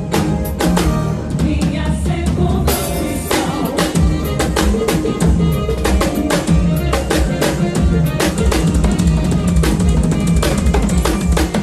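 Drum kit played in a fast, busy pattern of snare hits, rimshots and bass drum over band music with a steady bass line.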